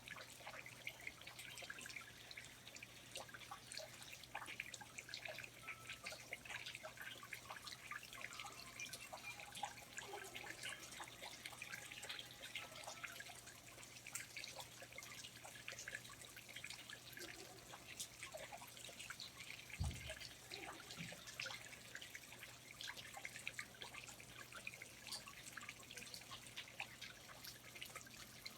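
Faint, irregular dripping of water in a rainforest, many small drips in quick succession. A single low thump comes about two-thirds of the way through.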